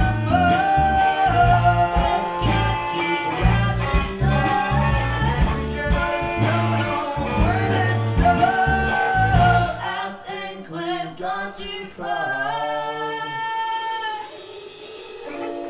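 Live gypsy rock band playing with singing, drums and bass keeping a steady beat. About ten seconds in, the drums and bass stop and leave held sung notes over the remaining instruments as the song draws to its close.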